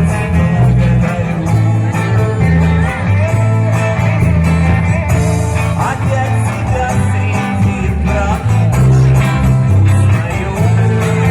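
Live band music: a vocal-instrumental ensemble playing a song with guitar over a steady bass line.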